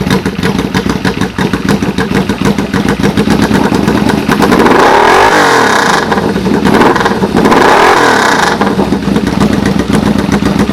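1995 Yamaha VMAX 1200's V4 engine idling through its dual exhaust, then revved twice, about halfway through and again a few seconds later. Each rev rises and falls before it settles back to idle.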